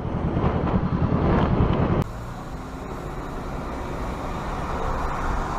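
Motor vehicle engine and road noise. About two seconds in it cuts abruptly to a quieter, steadier road rumble.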